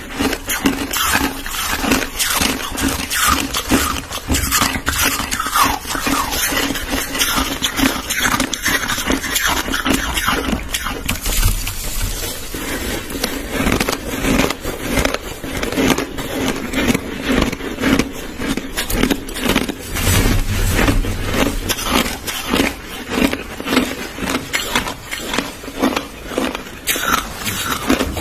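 A person chewing white crushed ice, with a dense, irregular run of crunches several times a second and no pauses.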